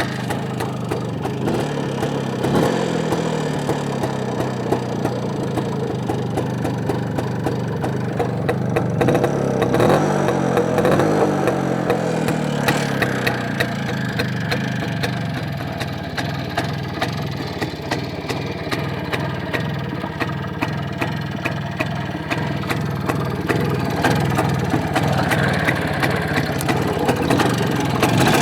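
IZh-56 motorcycle's single-cylinder two-stroke engine running, briefly revved up about ten seconds in and then dropping back.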